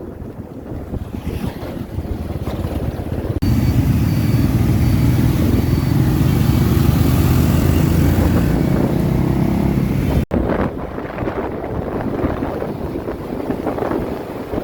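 Motorbike engine running while riding, with wind buffeting the microphone. Two abrupt cuts break the sound, and a louder stretch in the middle carries a faint, intermittent high beeping.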